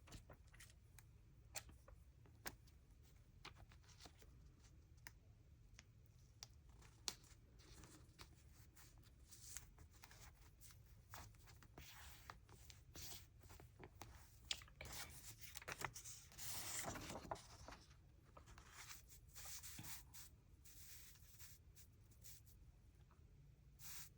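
Faint paper handling: a sticker being peeled from its backing and pressed down onto a journal page, with scattered small clicks and short rustles and a longer rustle about seventeen seconds in.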